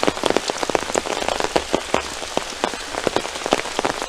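Heavy rain falling, with many sharp, irregular taps of drops striking close by.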